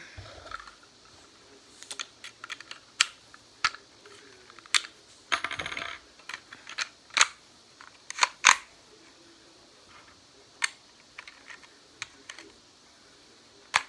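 Irregular sharp clicks and clinks of small hard objects being handled, with a short rattle about five and a half seconds in.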